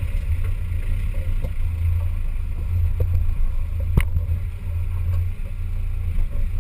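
Off-road 4x4's engine running steadily at low revs, with a sharp knock about four seconds in.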